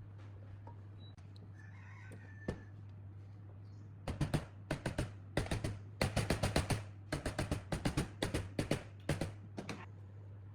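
A fast, irregular run of sharp clicks and taps lasting about six seconds, starting about four seconds in, over a steady low hum.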